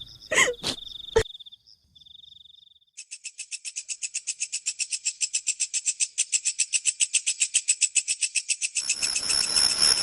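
A high, rapid pulsing trill, about ten pulses a second, growing louder: the call of a frog or insect in a night-time horror soundscape. It is preceded by two quick sweeping squeals and a high whine that fades out in the first two seconds.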